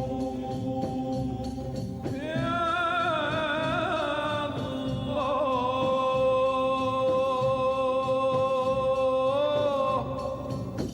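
Arabic devotional singing (inshad) of the Names of God: steady held tones, then about two seconds in a long, ornamented sung line with vibrato that holds until shortly before the end.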